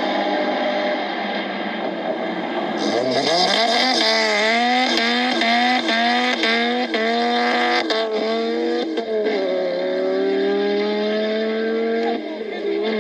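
Car engine accelerating hard: a sharp rise in revs, then a quick series of short rising pulls broken about every half second, then one long climb that falls away at the end.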